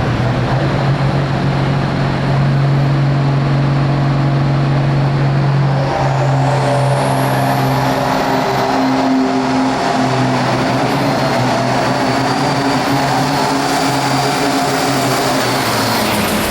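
Turbocharged diesel Hot Farm pulling tractor engine running hard at high revs. About six seconds in the sound changes and a high whine starts, rising steadily in pitch until the end.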